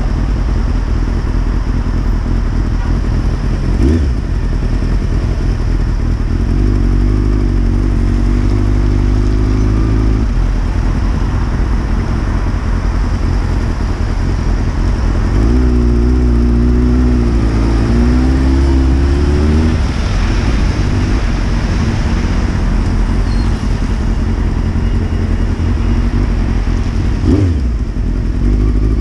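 Honda CBR600's inline-four engine running at low speed in slow traffic, with wind and road noise over it. The engine note holds steady for a few seconds twice, and rises briefly about four seconds in and again near the end.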